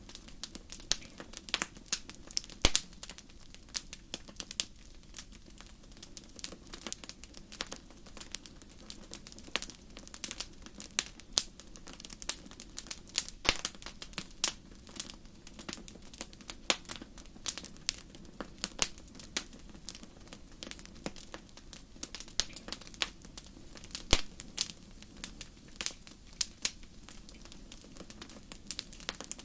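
Wood campfire crackling: irregular sharp pops and snaps, several a second, some much louder than others, over a soft steady low background of the burning fire.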